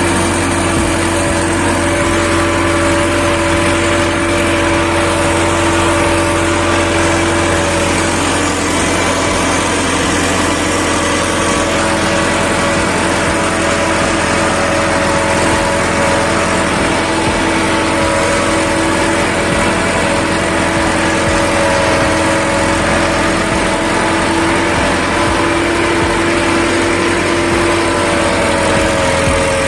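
Tractor diesel engine running at a steady speed, with a constant hum held throughout.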